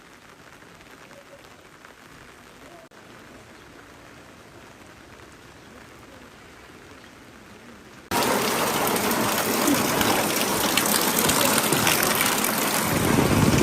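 Rain falling, faint at first. About eight seconds in it cuts abruptly to loud, close rain with a dense hiss.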